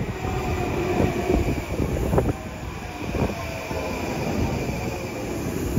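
Passenger train running past on the rails: a steady rumble of the cars with sharp clicks from the wheels and a faint steady whine.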